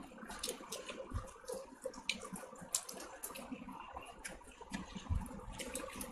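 Close-miked chewing of soft, wet food (poori and chicken curry eaten by hand), with a run of short wet smacks and clicks from the mouth.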